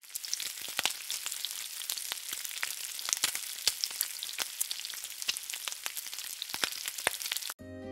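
Steady crackling sizzle of food frying, full of irregular pops, which cuts off suddenly near the end as guitar music starts.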